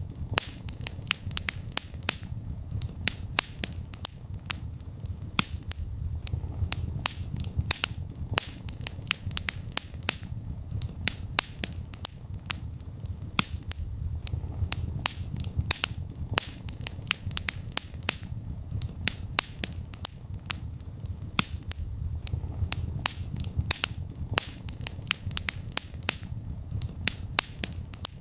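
Wood fire burning in a fireplace: dense, irregular crackles and pops, several a second, over a low steady rumble of the flames.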